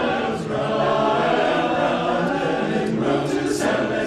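A barbershop chorus singing a cappella in close harmony, holding sustained chords with a swing feel.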